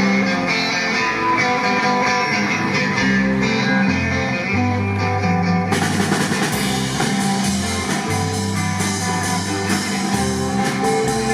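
Live rock band playing an instrumental intro: a repeating electric guitar and bass riff with drums, the cymbals joining about six seconds in.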